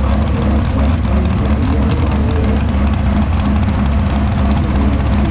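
Diesel super stock pulling tractor's engine running steadily, without revving.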